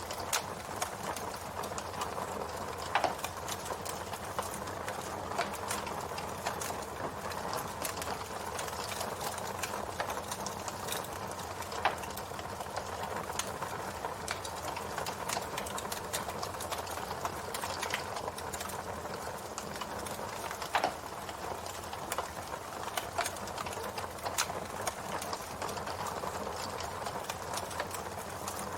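Campfire burning: a steady hiss from the flames, with frequent small crackles and a few louder pops several seconds apart.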